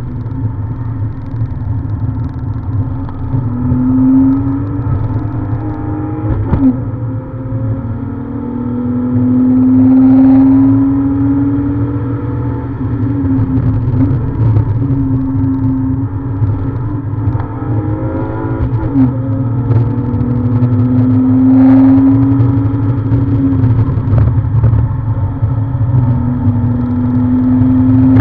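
BMW E46 330's 3.0-litre straight-six heard from inside the cabin, driven hard on track: the engine note climbs under full acceleration, then falls sharply at gear changes and braking, several times over, over a steady low road rumble.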